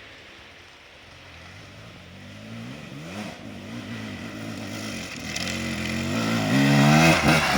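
Enduro motorcycle approaching, its engine revving up and down with the throttle and growing steadily louder, loudest near the end.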